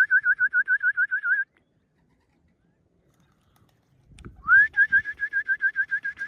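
A trilling whistle at one steady pitch, warbling about seven times a second: the signal that calls racing pigeons in to trap into the loft. It breaks off about a second and a half in and starts again with a short upward slide a little after four seconds.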